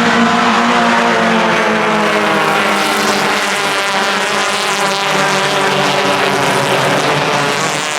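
Hyundai Excel race cars' engines running at high revs on track during a race, a steady engine drone whose pitch drifts slowly up and down as they change speed.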